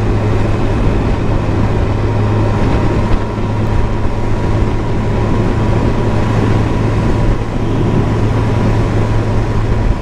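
Motorcycle cruising at a steady highway speed, heard through a helmet-mounted camera: a constant low engine drone under heavy, even wind rush.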